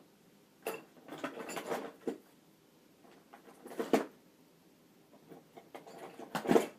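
Handling noise: a few scattered knocks and rustles, the loudest about four seconds in and just before the end.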